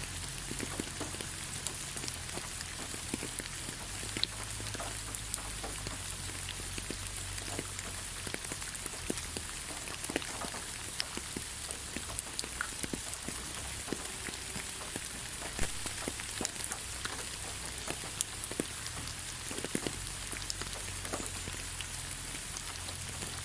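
Steady light rain falling in a forest, a constant hiss with many scattered individual drops ticking irregularly, over a low steady rumble.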